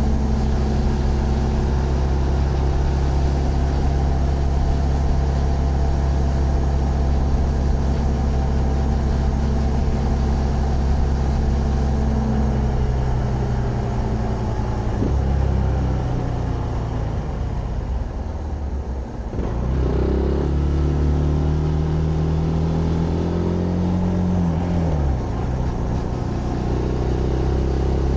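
Zontes GK 125 motorcycle's single-cylinder engine running under way at a steady speed. Past the middle its note falls away and quietens as the throttle eases. About 20 s in it picks up again with a slowly rising pitch, then drops abruptly about 25 s in and settles to a steady run.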